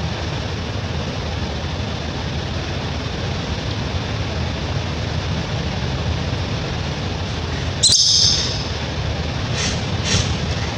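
Baby monkey giving a sudden shrill squeal about eight seconds in, then three shorter high-pitched squeaks near the end, over a steady low background rumble.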